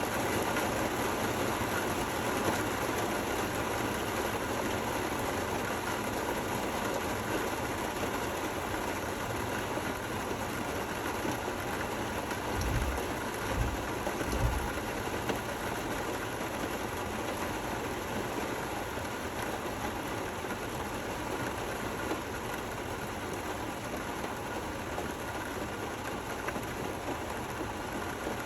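Steady rain falling, an even hiss with no rhythm. About halfway through come three short low thumps.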